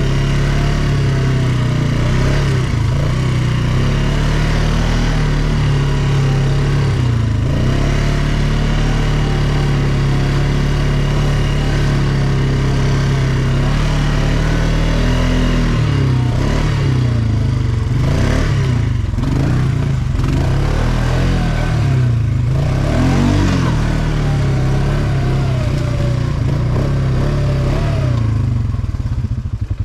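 ATV engine running under way on a forest trail, holding a steady pitch at first, then rising and falling with the throttle from about halfway through. Near the end it drops to an even, pulsing idle.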